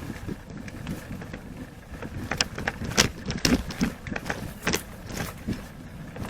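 Wind rumbling on the microphone, with irregular knocks and clicks scattered through it.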